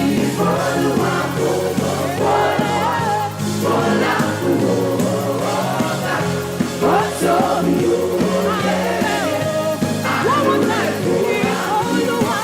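Gospel praise music: voices singing over a held, steady low accompaniment.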